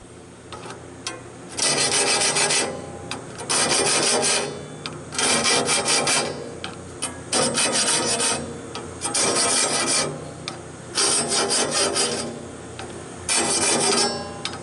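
Hand file drawn across the steel teeth of a sawmill band blade: seven rasping strokes of about a second each, one every two seconds or so. It is dressing the tooth edges during sharpening.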